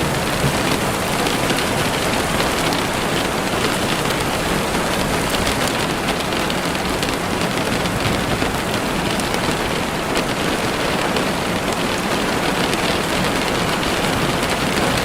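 Heavy rain falling steadily on a window: a dense, even hiss of countless drops hitting the glass.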